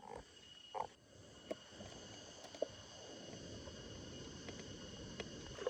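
Steady high-pitched drone of insects calling, with a rustling rush that grows louder from about a second in and a few sharp clicks over it.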